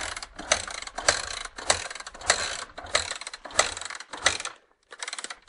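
Rhythmic mechanical ratcheting, about one stroke every 0.6 s, stopping near the end.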